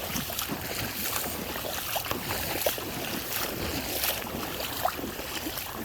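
Floodwater running down a flooded street: a steady rushing wash with many small scattered splashes.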